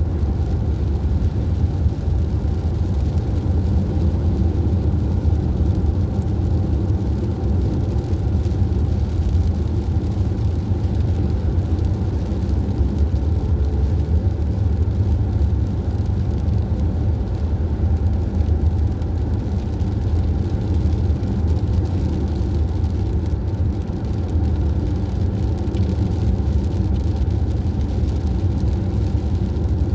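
Vehicle cruising at highway speed: a steady, unchanging low engine and road rumble.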